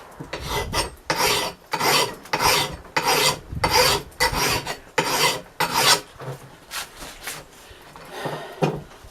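A hand file rasping in steady strokes, about two a second, across the edge of an old Jersey pattern axe head, taking the bevel down to bare metal and raising a burr. After about six seconds the strokes thin out to a few lighter ones.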